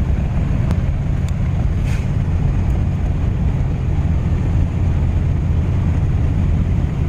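A vehicle driving, heard from inside the cabin: a steady low engine and road rumble, with a few light ticks in the first two seconds.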